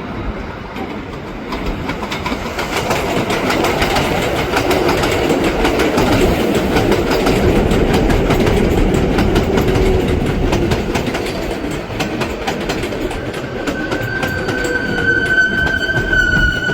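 A 7 train of R188 subway cars running on the IRT Flushing Line's elevated steel structure, its wheels clattering over the rail joints, loudest in the middle. Near the end a steady high whine sets in.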